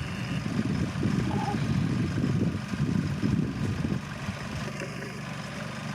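Rice combine harvester's engine running steadily, with a louder, rougher stretch that eases off about four seconds in.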